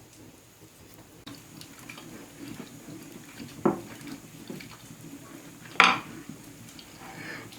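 Cookware and utensils being handled: light clinks and scrapes, with two sharp knocks, the second and louder about two seconds after the first.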